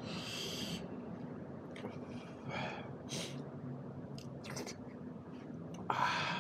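Close-miked eating sounds: a man chewing mouthfuls of buffalo meat curry and dhido, with several short hissing mouth noises from slurping or breathing in through the mouth, the last and loudest near the end. A faint steady hum sits underneath.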